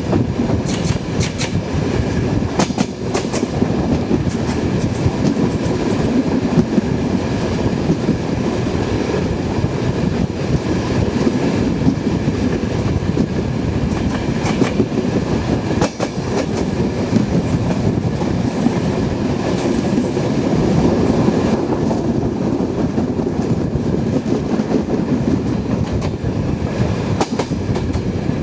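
Mixed freight-passenger train of the Turkish State Railways running along the line: a steady rumble with irregular clicks of the wheels over the rail joints.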